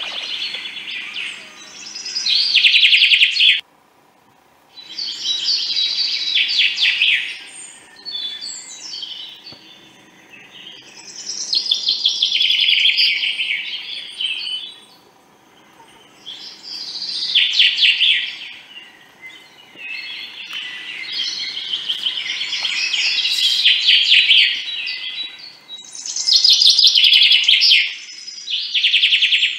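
Songbirds singing, probably a recorded nature soundtrack: bursts of rapid, trilling song every few seconds, each lasting two to three seconds. The sound cuts out briefly about four seconds in.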